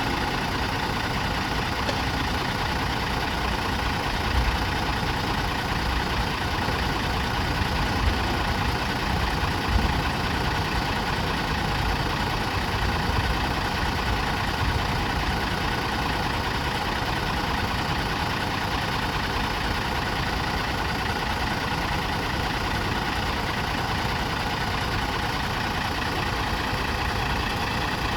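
Toei city bus engine idling steadily, an even hum that stays unchanged with a few small low thumps in the first ten seconds.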